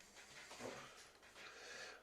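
Near silence: faint room tone with a few soft, low swells.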